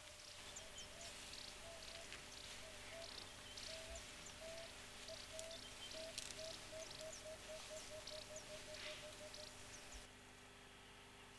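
Faint natural ambience: a bird repeats a low note, slowly at first and then faster and faster into a run that stops. Short high chirps sound throughout and drop away abruptly near the end.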